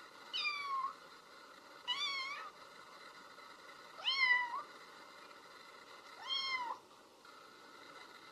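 A cat meowing four times, each meow about half a second long and roughly two seconds apart.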